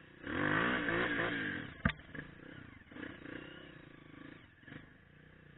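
Trail motorcycle engine revved hard for about a second and a half, then a sharp knock, then running quieter at lower revs.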